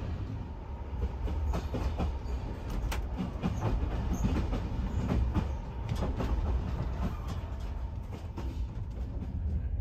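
Moving sleeper train heard from inside the compartment: a steady low rumble with irregular clicks and knocks of the wheels on the track.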